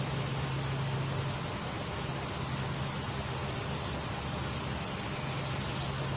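Steady forest ambience: an even, high-pitched insect hiss over a low steady hum.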